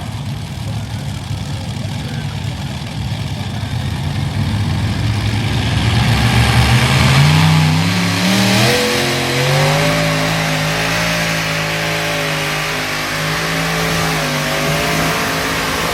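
Super modified pulling tractor's engine rumbling and building, then revving up about seven seconds in and held at high, steady revs as it pulls the sled down the track.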